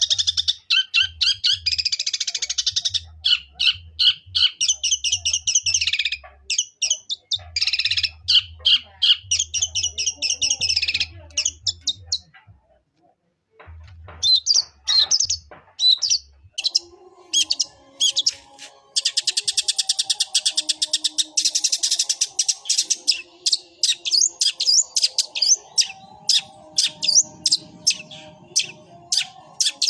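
Long-tailed shrike (cendet) singing fast runs of sharp, high chirps in imitation of a Eurasian tree sparrow, with a short break about twelve seconds in before a denser stream of chirps.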